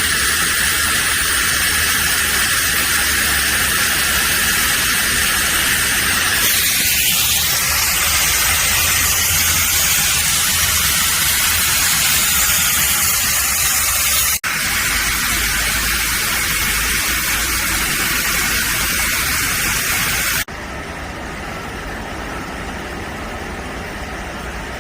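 Steady, loud hissing noise that cuts off abruptly twice and carries on quieter for the last few seconds.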